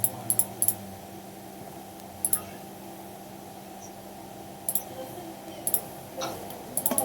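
Scattered single clicks of a computer mouse and keyboard, a few seconds apart, over the steady hum of a computer fan.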